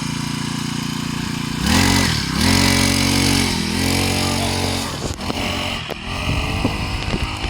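Small 50cc dirt bike engine running steadily, then revved about two seconds in, its pitch rising and falling as the throttle is worked for a few seconds before dropping back near the end.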